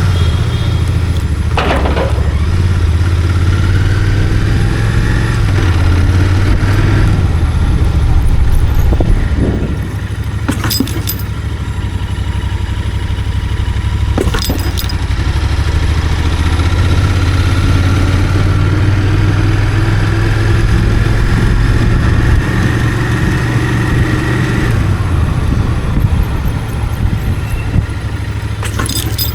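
Royal Enfield Continental GT 650's parallel-twin engine through its stock exhaust while riding. The pitch climbs slowly under throttle and drops back when it eases off, about ten seconds in and again near the end.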